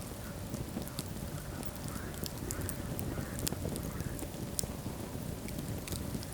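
Wood fire burning in a fireplace: a steady low rumble of flames with scattered sharp crackles and pops at irregular times.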